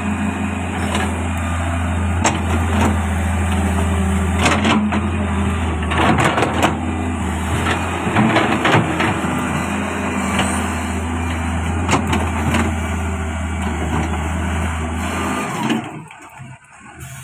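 Hitachi excavator's diesel engine running steadily under load, with irregular sharp knocks and clanks from the machine at work. The engine sound drops away sharply near the end.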